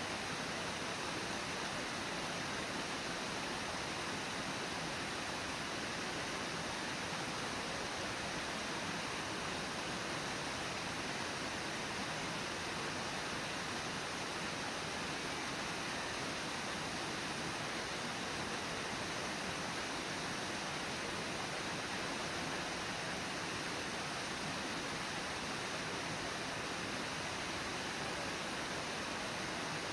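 Brooks Falls, the waterfall on the Brooks River, rushing steadily.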